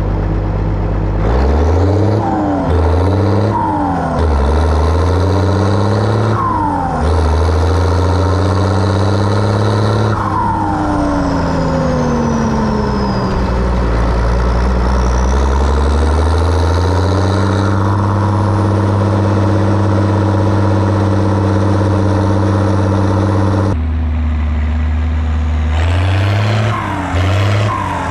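Zetor ZTS 16145 tractor's six-cylinder turbo diesel working under load on a deep cultivator, its revs rising and falling several times. A high whistle falls away as the revs drop, the turbo blowing off, and the engine runs steadily before dipping and picking up again near the end.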